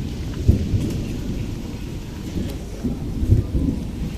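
Low rumbling of thunder as a storm approaches, swelling about half a second in and again around three seconds in.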